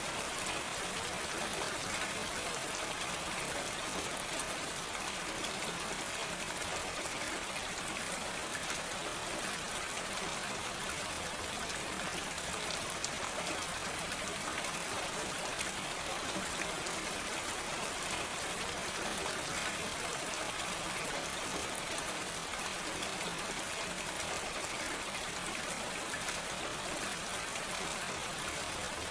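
Steady rain falling without thunder, an even hiss of many drops with faint individual drop ticks.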